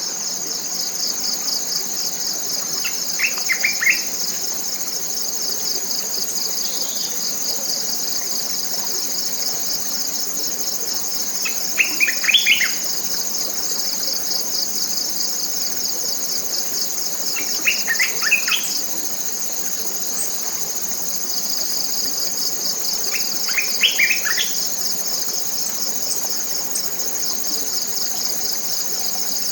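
A dense, steady, high-pitched chorus of forest insects, part of it a fast pulsing trill. Over it a bird repeats a short phrase of quick notes about every six seconds, four times.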